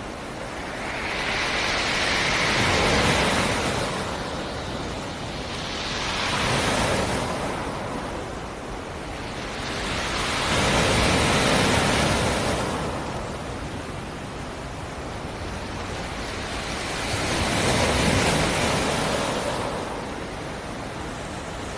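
Black Sea surf: waves rolling in and breaking on the shore, the wash swelling and falling back four times.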